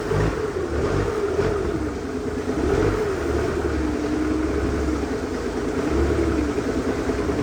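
An engine running steadily, its tone slowly rising and falling in pitch, over a low rumble that swells and fades.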